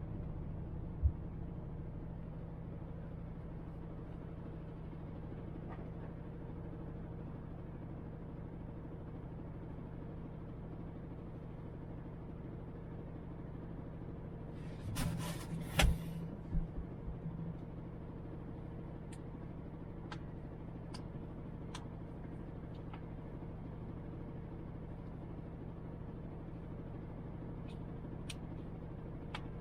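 MAN TGX truck's diesel engine running at steady revs, a low even drone. There is a sharp knock about a second in and a short burst of hiss and knocks around the middle, then faint scattered clicks.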